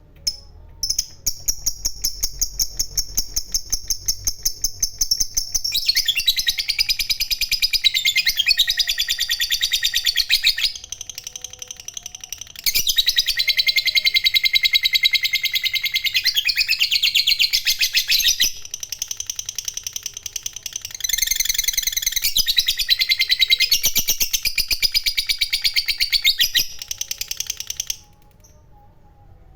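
Lovebird doing the long 'ngekek' trill: a fast, high-pitched chattering rattle held for several seconds at a time, in three long loud bouts with short pauses between them.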